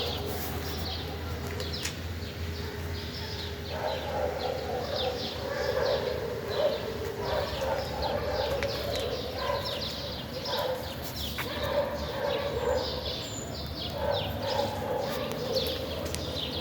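Many small birds chirping over and over, over a lower, continuous din of other animal sounds.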